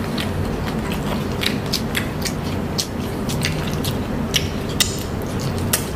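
Close-miked chewing and mouth sounds of people eating pork adobo with rice by hand: wet smacks and short sharp clicks scattered irregularly over a steady low hum.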